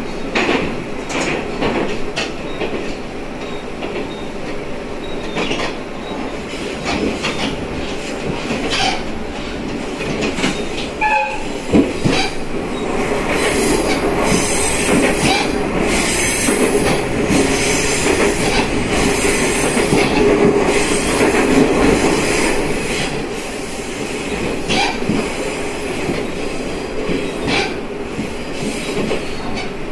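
Cabin sound of a diesel railcar on the move: running noise with irregular clicks of the wheels over the rails and a high wheel squeal. It grows louder for about ten seconds in the middle, while the car runs through a dark tunnel.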